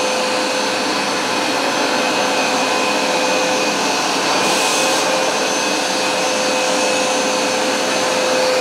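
Hoover SmartWash Pet automatic carpet cleaner running, its suction motor giving a steady whine. A brief extra hiss comes in about four and a half seconds in.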